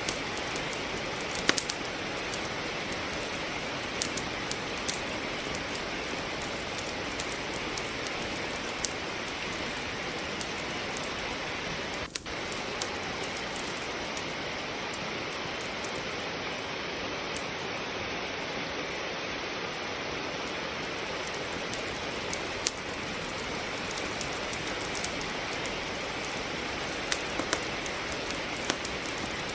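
Steady rain falling, mixed with scattered sharp crackles of firewood burning in a fireplace. The sound drops out for a split second about twelve seconds in.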